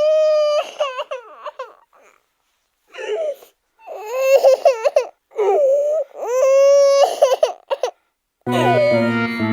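A high-pitched voice crying in four long wails with short gaps. About eight and a half seconds in, chiming music starts.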